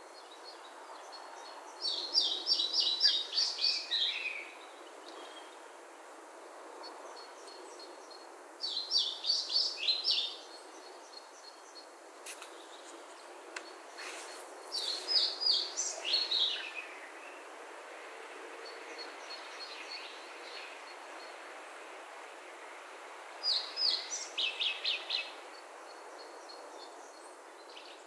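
A songbird singing four song phrases several seconds apart, each a quick run of repeated high notes that drops lower at the end. Faint high ticking calls sound between phrases over a steady background hiss.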